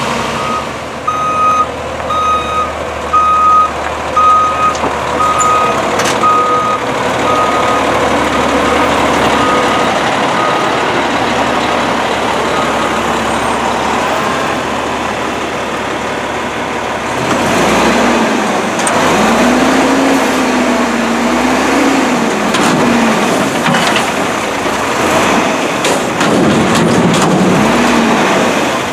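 Garbage truck's backup alarm beeping steadily, about one and a half beeps a second, over its idling diesel engine; the beeping stops after about ten seconds. Later the Volvo WXLL's diesel engine is revved up and down several times.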